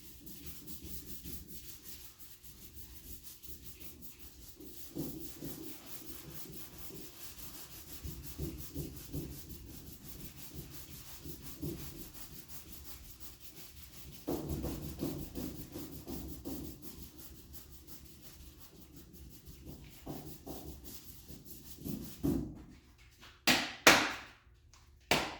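400-grit sandpaper rubbing back and forth over high-build automotive primer on a body panel, steady sanding strokes. A few sharp knocks near the end.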